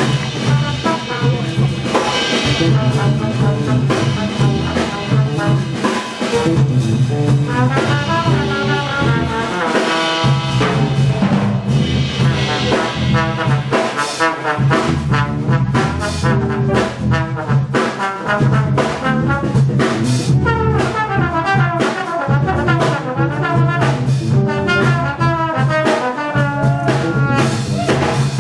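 Big-band jazz orchestra playing, with the trombone and trumpet sections over bass and drum kit.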